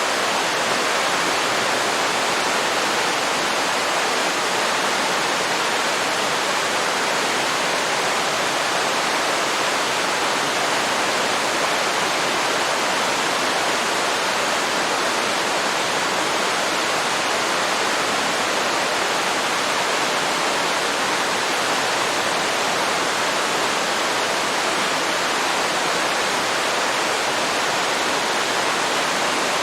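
Waterfall pouring steadily into a river: a constant, even rush of falling water.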